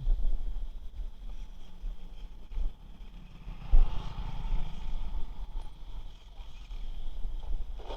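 Xinlehong 9125 1/10-scale RC truck running on its brushless motor: an uneven low rumble with some knocks, and a brief motor whine about four seconds in.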